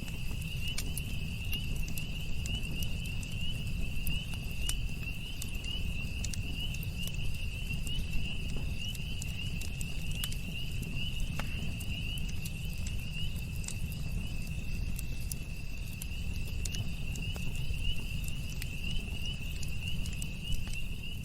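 Campfire crackling, with scattered sharp pops over a low steady rumble, under a continuous high insect trill.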